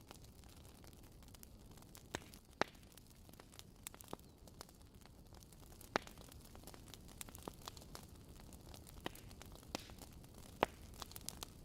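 Fireplace fire crackling: irregular sharp pops, a few of them louder, over a low steady hiss.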